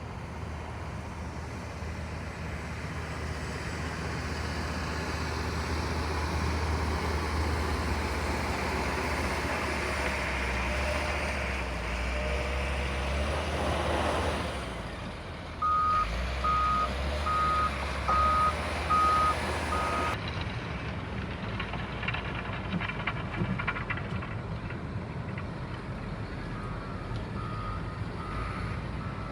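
A heavy vehicle's engine running and growing louder, then its reversing alarm beeping in a steady single tone, about one and a half beeps a second, for several seconds past the middle. The beeping comes back fainter near the end.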